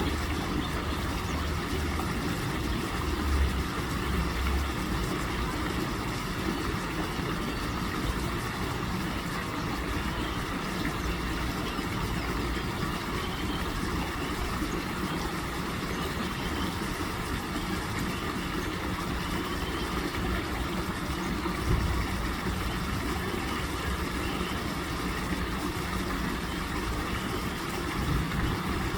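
Steady low engine rumble, with a few brief louder bumps.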